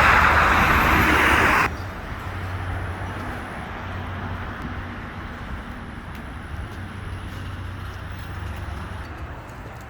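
A motor vehicle's engine running with a steady low rumble that slowly fades. It opens with a loud burst of hissing noise that cuts off abruptly about two seconds in.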